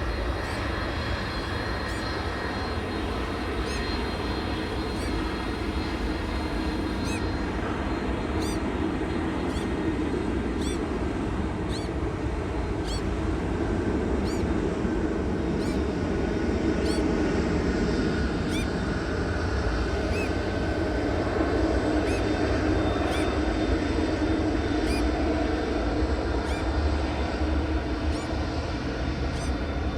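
Jet airliner engines, a steady rumble with a faint whine, slowly growing louder. Short high chirps repeat over it every second or so.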